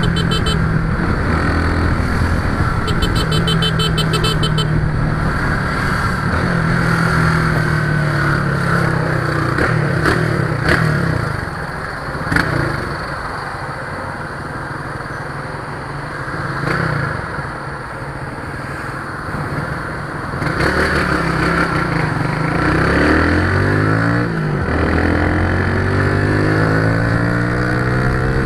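A road vehicle's engine running under way, its pitch rising and falling with changes of speed and gear. It is quieter for several seconds in the middle of the stretch.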